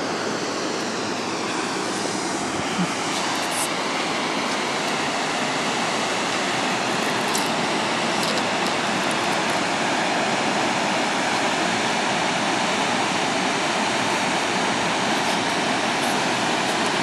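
Waterfall rushing: a steady, even sound of falling water that holds at one level throughout.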